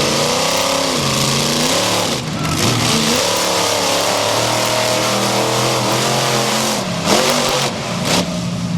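Monster truck engine revving hard, its pitch rising and falling with the throttle, dropping briefly about two seconds in and again near seven seconds.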